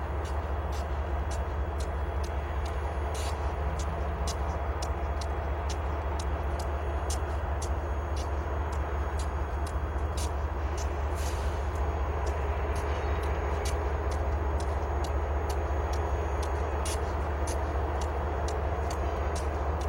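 Steady low rumble of a Union Pacific diesel locomotive, with many short sharp clicks scattered throughout.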